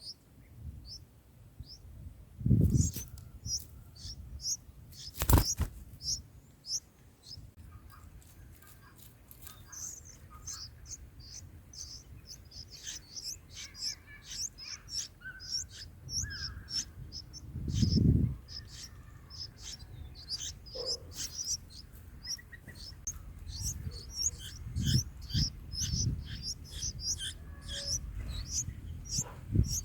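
Bulbul chicks in the nest giving rapid, high-pitched begging chirps, many per second, growing busier about a third of the way in. A few dull thumps and one sharp click come from around the nest.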